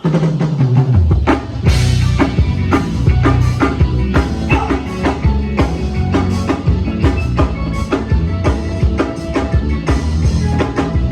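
Live band playing an upbeat song, kicking in suddenly: a drum kit with kick and snare on a steady beat over a loud bass line.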